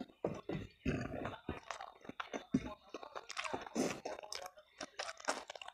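Close-miked chewing of spicy instant noodles and rice, with many short, irregular wet mouth clicks and smacks.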